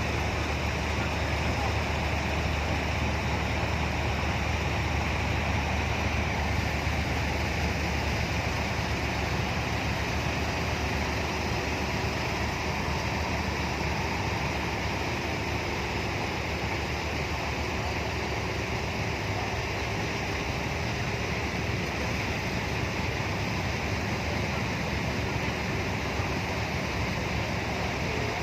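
Steady outdoor background noise at a truck show, an even wash of sound with a low hum underneath that drops away about eight seconds in.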